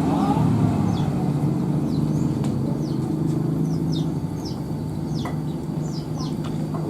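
A steady low mechanical rumble, with short high falling chirps repeating about twice a second from a little way in.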